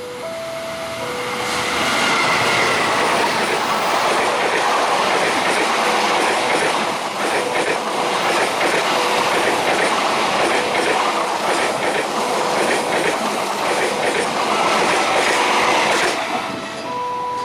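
A train passing fast over a level crossing, its wheels clattering over the rail joints, loudest from about two seconds in until about sixteen seconds. The crossing's alternating two-tone electronic warning bell sounds before and after it and can be heard faintly under the train.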